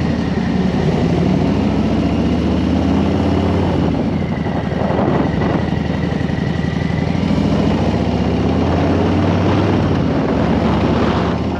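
Harley-Davidson Street Bob 114's Milwaukee-Eight 114 V-twin engine running steadily under way, with the pitch rising and easing slightly, under heavy wind rush.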